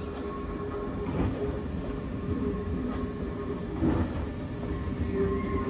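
Red Deutsche Bahn electric multiple-unit train rolling slowly past on curved track. There is a steady hum, and wheels clack over rail joints a few times.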